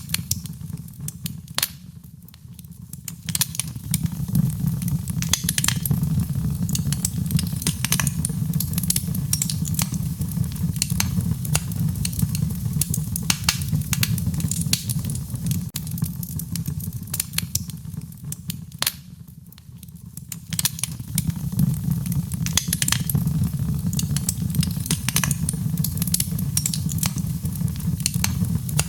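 Wood fire crackling, with frequent sharp pops and snaps over a steady low rumble of burning. The sound eases briefly twice, about two seconds in and again about two-thirds of the way through.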